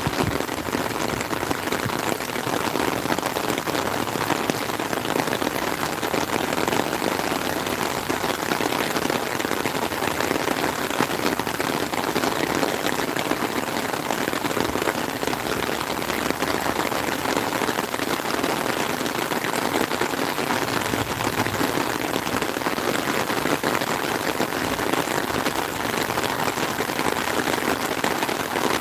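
Steady heavy rain falling on a lake surface and on the canopy just overhead.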